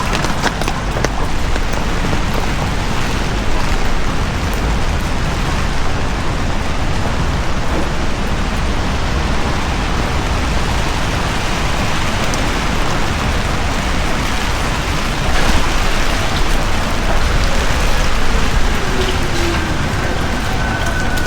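Heavy rain falling steadily on a city street: a constant hiss with a low rumble beneath it. A faint steady high tone comes in near the end.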